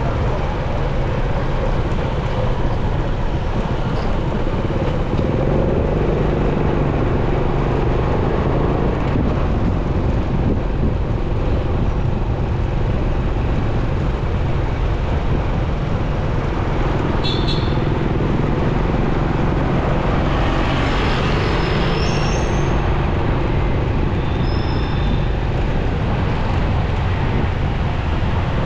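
Steady motorcycle ride through city traffic: engine hum with road and wind noise, and other vehicles passing. A few brief high-pitched tones sound about two-thirds of the way through.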